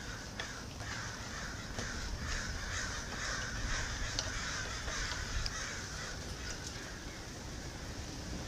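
Faint bird calls in the background, with a few faint clicks.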